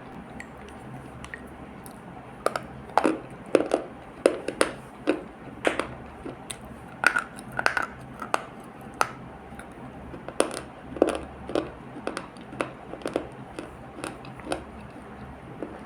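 Close-miked chewing and crunching of an earthy paste: irregular crunches and wet clicks, starting about two and a half seconds in and dying away near the end.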